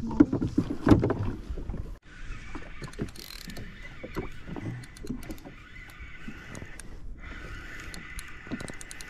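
Fishing reel being wound in: a steady whirr with light ticking, after about two seconds of low knocks and rumble of handling on the jetski.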